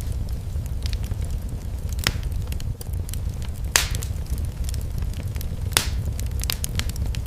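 Wood fire crackling in a fireplace over a steady low rumble, with scattered small ticks and three sharp pops, the loudest a little past the middle.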